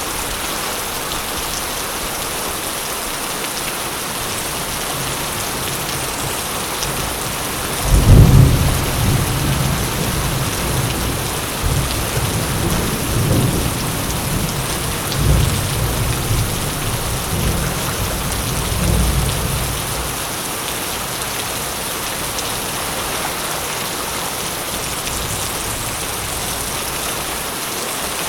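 Steady heavy rain falling, with a thunderclap breaking in sharply about eight seconds in and rolling on in several rumbling swells for roughly twelve seconds before fading back to rain alone.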